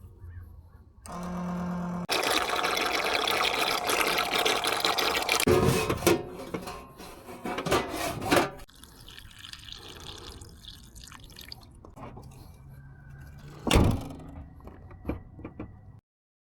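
Liquid pouring and gurgling, most likely motor oil flowing during the oil change, loudest for a few seconds after a short hum. It is followed by scattered clunks and one sharp knock near the end.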